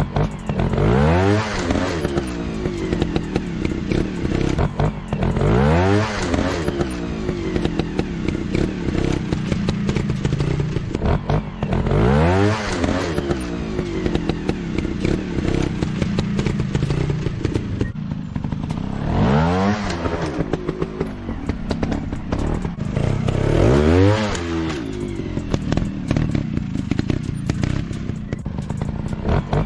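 Dirt bike engine revved up sharply and dropping back, about six times, running at low revs between the blips.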